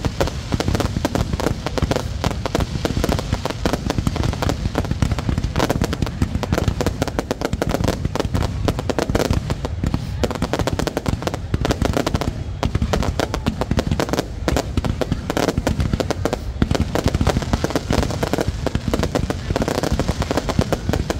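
Aerial fireworks going off in a continuous, dense barrage of rapid bangs and crackles, with no pause.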